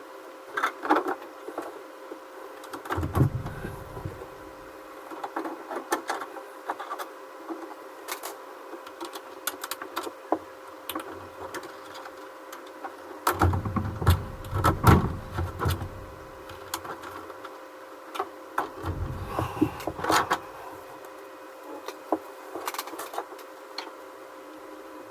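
Irregular clicks, taps and light scraping of hard plastic parts being handled and fitted on a workbench, with three spells of heavier bumps and knocks, over a faint steady hum.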